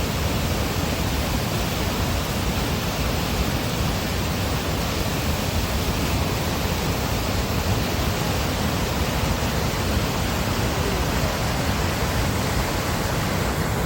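Steady rush of fast-flowing river water, an even noise that does not change.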